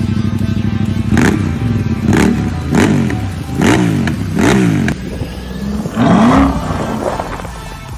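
Upgraded Ducati Diavel's L-twin engine held at a raised idle, then revved in about six short throttle blips, each rising and falling in pitch.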